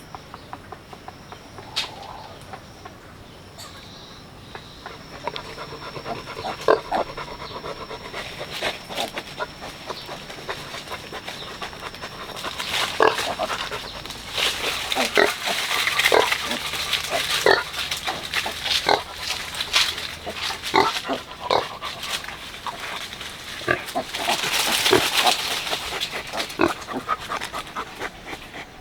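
A sow and her piglets grunting and squealing. The squealing gets louder about halfway through and again near the end.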